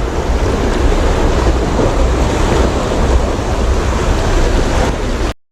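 Sea waves washing and surging, with wind buffeting the microphone in a heavy low rumble; the sound cuts out abruptly near the end.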